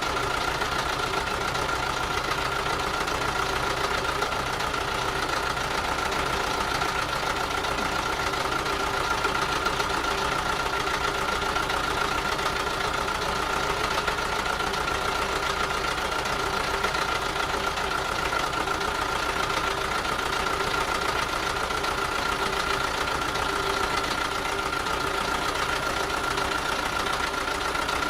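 Heavy truck's diesel engine idling steadily, with an even clatter and a constant whine over the top.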